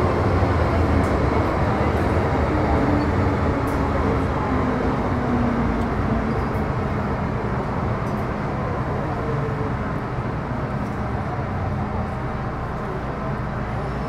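Running noise heard inside a carriage of an MTR Metro Cammell M-Train (GEC GTO-chopper EMU): wheels rumbling on the rails with a low motor hum and faint steady chopper tones, getting gradually quieter.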